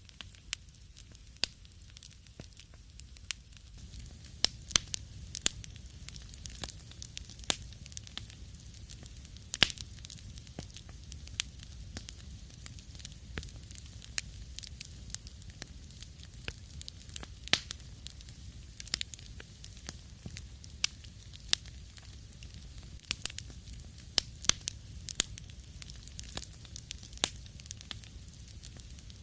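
Wood fire in a fireplace crackling, with sharp irregular pops a few times a second over a soft low rumble and hiss of burning logs.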